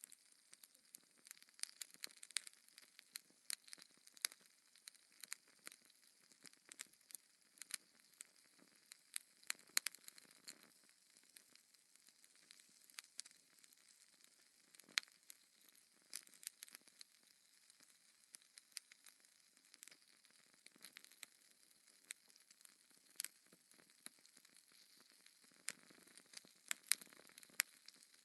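Wood fire in a fireplace crackling: irregular sharp pops and snaps, several a second at times, over a faint steady hiss.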